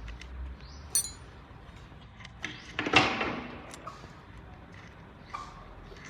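Metal parts and tools being handled: a short ringing clink about a second in, then a louder metallic clatter about three seconds in, with small clicks around them.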